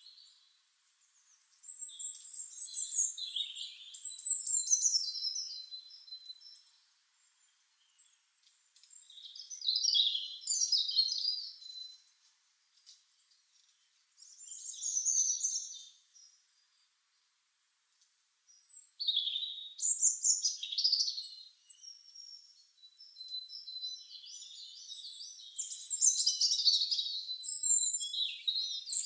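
Small birds singing: bouts of high, rapid warbling and chirping a few seconds long, with short pauses between them and denser song near the end.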